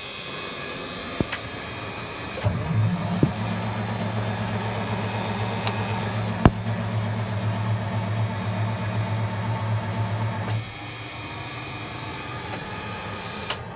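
Starter cranking a 1973 8V71 Detroit Diesel two-stroke V8 on a cold start attempt after months of sitting, using the cold start switch. A few seconds in, a deeper steady drone joins the cranking for about eight seconds, then drops away; the cranking stops near the end and the engine does not start.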